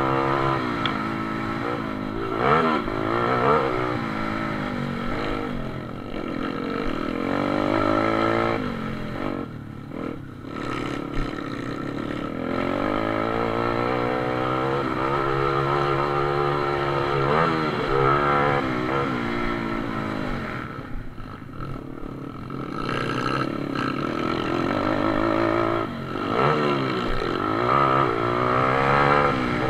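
Pit bike racing: small single-cylinder motorcycle engines revving hard, their pitch rising and falling over and over as the bikes accelerate and shut off through the corners, with a couple of brief lulls.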